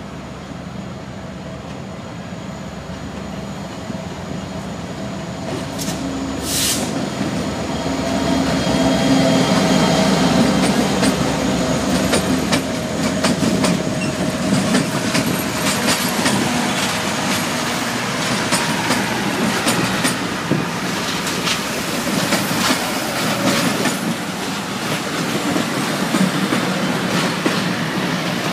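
Norfolk Southern GP40-2 and RP-E4C diesel locomotives approaching and passing close by, their engines growing louder to a peak about ten seconds in. Then passenger cars rolling past, their wheels clicking over the rail joints.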